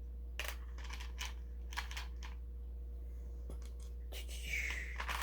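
Small plastic LEGO pieces clicking and clattering as they are handled and sorted, in irregular clusters of sharp clicks, with a brief rustle near the end.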